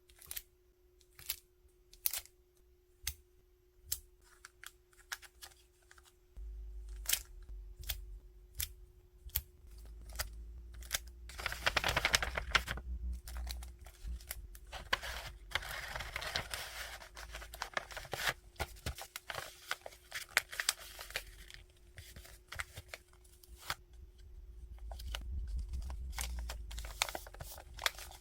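Hand-packing stationery goods: sharp clicks and snips about once a second, then rustling and crinkling of plastic and paper packaging with tearing, over a faint steady hum.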